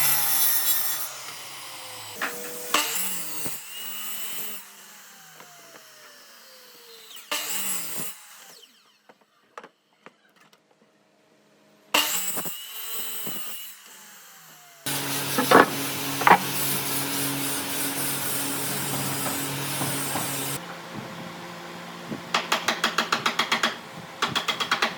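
Woodworking power tools run in short bursts on wood, each motor winding down in pitch after it is switched off. Later a motor runs steadily for about five seconds, and near the end comes a quick, even series of taps.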